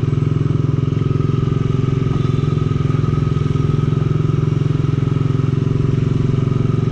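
Motorcycle engine running at a steady speed, its even firing beat loud and unchanging.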